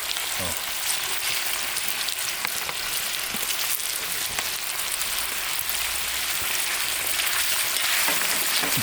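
Gambas sizzling steadily in hot olive oil in a pan on low heat, a constant hiss with scattered small crackles and pops.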